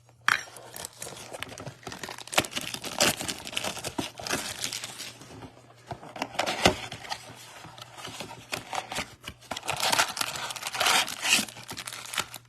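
Plastic shrink-wrap being torn off a cardboard trading-card blaster box and crumpled, a steady run of crinkling and tearing with sharp crackles as the box is opened and emptied of its packs.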